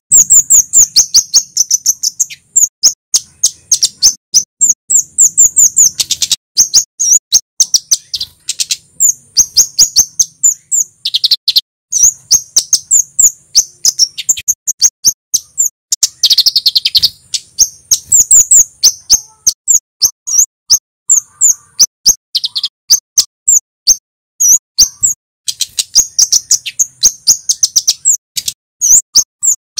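Male kemade flowerpecker singing: fast runs of sharp, high 'cit' notes in bursts of a few seconds, broken by short pauses.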